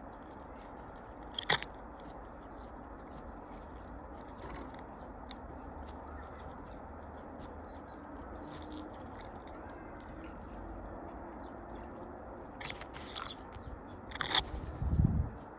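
Small birds pecking and cracking feed at a feeder: scattered light taps and crunches, a sharper click about a second and a half in, and a louder flurry of taps with a low thump near the end.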